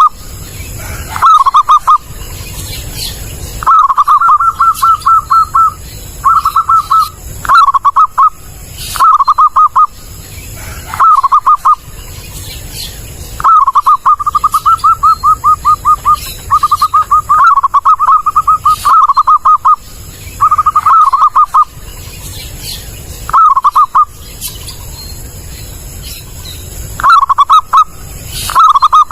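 Zebra dove (perkutut) cooing: loud phrases of quick rolling coos, a dozen or so, most short and a few drawn out into long trills of two to three seconds, separated by brief pauses.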